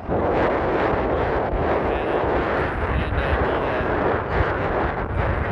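Heavy wind buffeting on a handheld phone's microphone while riding a Onewheel: a loud rushing rumble that starts abruptly.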